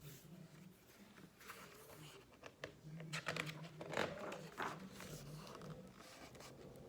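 Faint paper rustling and crinkling as the pages of a picture book are handled and turned, in several short bursts, the busiest about halfway through.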